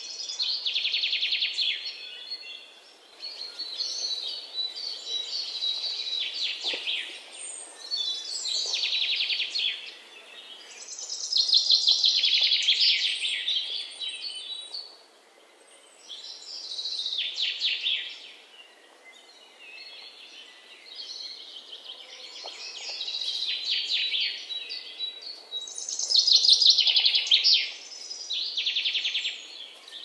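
Birdsong: high, rapidly trilled phrases repeating every two to three seconds.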